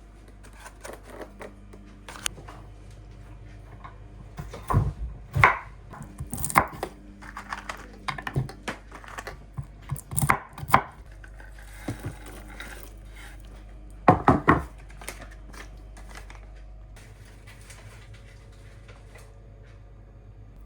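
A knife chopping on a cutting board in irregular knocks, with a few louder clusters of strokes.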